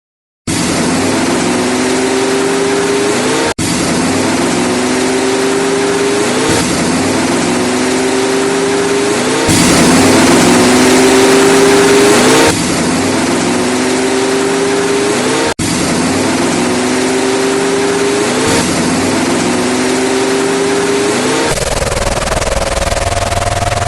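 A loud engine revving, its pitch rising and then dropping back in near-identical cycles about every three seconds like a repeating loop, switching to a steadier, higher note near the end.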